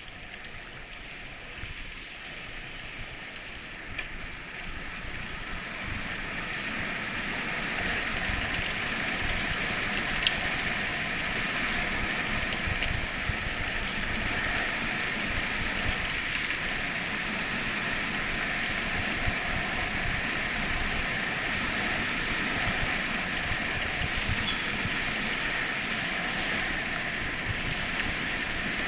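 Steady rushing noise with irregular low buffeting, typical of wind on the microphone while moving; it builds over the first eight seconds or so, then holds.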